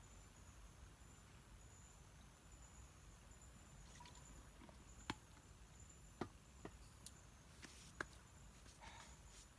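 Faint, steady high-pitched drone of insects, likely crickets, in a forest. About halfway through come a handful of sharp, separate clicks.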